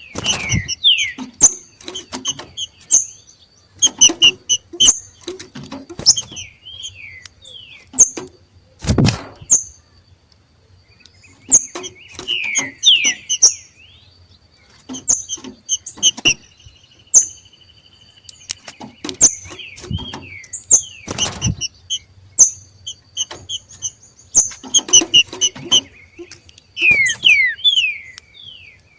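Green-winged saltators (trinca-ferro) giving their 'macheado' breeding call: rapid runs of short high chirps and quick falling whistled notes, coming in bouts with short pauses. Sharp knocks and wing flutters are mixed in, loudest about a third of the way in and again about two-thirds in.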